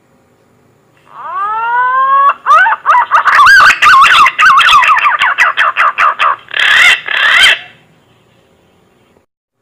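Green pigeon (punai) call played as a hunting lure: a long rising whistle, then a fast warbling run of whistled notes, ending in two harsher notes.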